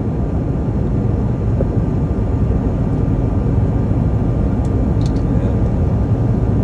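Steady low rumble of a moving vehicle heard from inside its cabin, with a couple of faint clicks about five seconds in.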